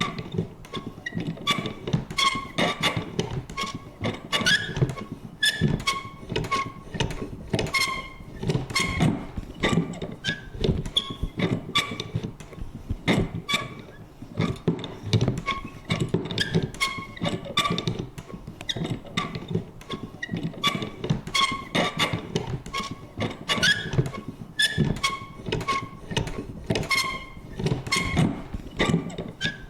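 Vintage paper punch worked over and over: a dense, irregular run of clunks and clicks, several a second, mixed with short squeaky creaks.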